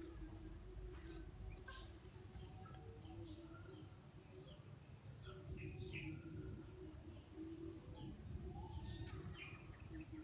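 Faint chirping of small birds in the background, many short scattered calls over a low steady rumble.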